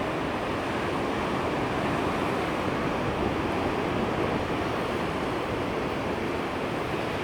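Ocean surf washing steadily on the shore, a continuous even rush of breaking waves with some wind on the microphone.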